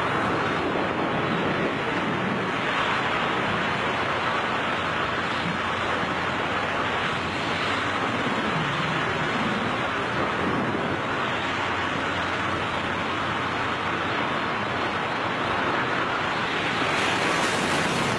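Steady rushing of air past skydivers in free fall, wind buffeting the microphone.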